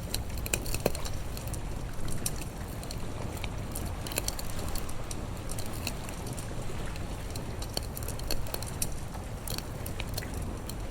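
Campfire crackling, with irregular sharp pops scattered throughout over a steady low rumble.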